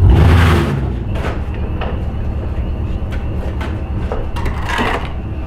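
Vehicle engine with a loud aftermarket exhaust running at idle, a deep steady rumble, with a louder surge in the first second and a few sharp clicks or knocks later.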